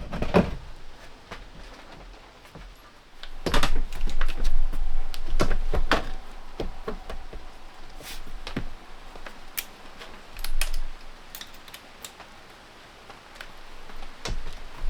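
Irregular knocks, clicks and clatter of hand work on wood and tools, with a louder, busier run of knocking about three and a half to six seconds in.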